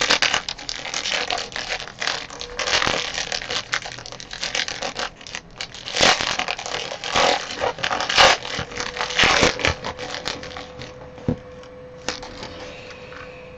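Cardboard and wrapper packaging of a trading-card box being torn open and handled: irregular rustling, scraping and crinkling strokes.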